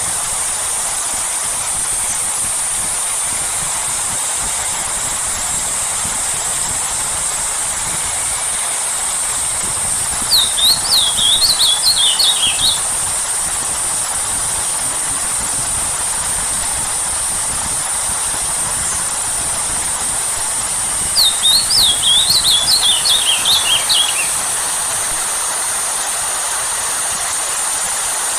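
Steady hiss of rain, with a songbird singing twice: quick rising-and-falling trilled phrases of about two and a half seconds, the first about ten seconds in and the second about twenty-one seconds in.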